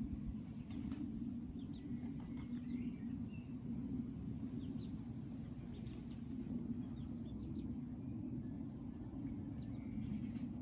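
Faint, scattered short bird chirps and peeps over a steady low background hum.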